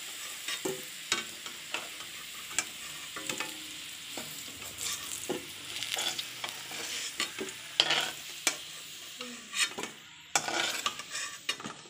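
Fried potato chunks sizzling in shallow oil in a kadai, while a metal spatula scrapes and clinks against the pan as the browned pieces are lifted out one by one.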